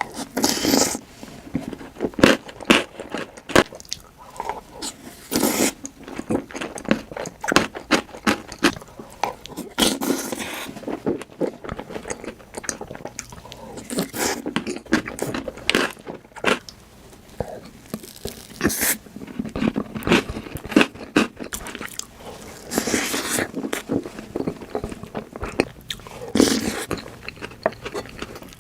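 Close-miked mukbang eating sounds: repeated bites, crunching and wet chewing, in dense, irregular crunches and clicks.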